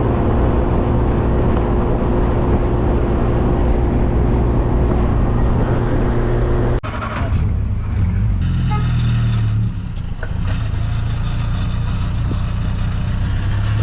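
Car engine and road noise while driving, steady throughout. The sound breaks off abruptly about seven seconds in, and after that a stronger, lower engine hum takes over.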